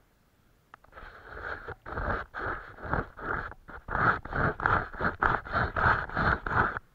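A paintbrush scrubbing back and forth in quick repeated scraping strokes, about two to three a second. The strokes start about a second in and grow louder and more even near the end.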